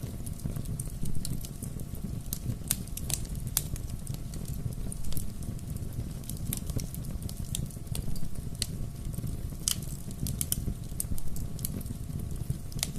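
Wood fire burning with a steady low rumble of flames and irregular sharp crackles and pops from the burning wood.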